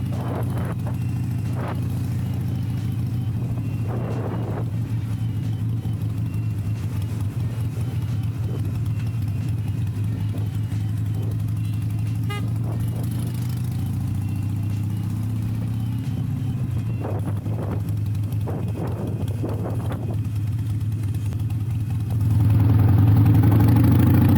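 Harley-Davidson Iron 883's V-twin with a Rinehart slip-on exhaust running steadily under way. It gets much louder about 22 seconds in as it revs harder.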